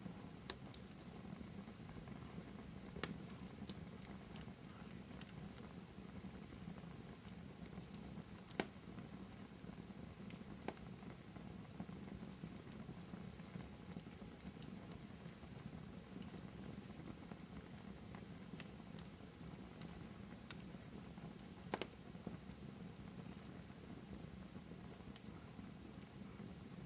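Wood fire in a fireplace crackling softly over a steady low background noise, with scattered sharp pops; the loudest come about three seconds in, about nine seconds in, and near twenty-two seconds.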